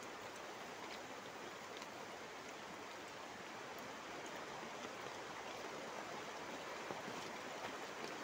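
Steady rain falling, an even hiss with occasional faint drops tapping, heard from under a plastic tarp shelter.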